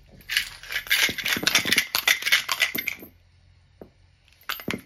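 Small hard objects rattling and clattering in a quick, dense run for about three seconds, like a toddler rummaging through toys, then a short clatter near the end.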